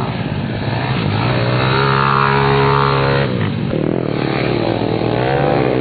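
Small four-stroke pit bike engines racing on a track, revving with rising pitch, falling off briefly about three seconds in, then climbing again.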